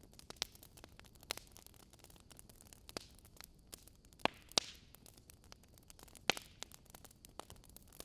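Crackling fire ambience: sparse, irregular pops and snaps over a faint steady hiss, a few louder snaps about halfway through and again later.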